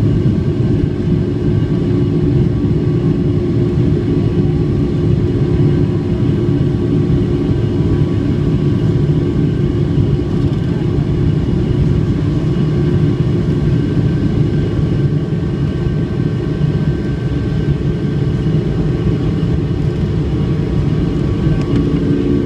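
Boeing 757-200 cabin noise from its Rolls-Royce RB211-535E4B engines: a loud, steady rumble with droning tones held throughout.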